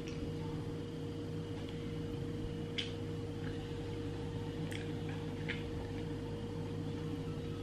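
Eating sounds of a person chewing grilled chicken, with a few short, sharp mouth clicks, over a steady hum.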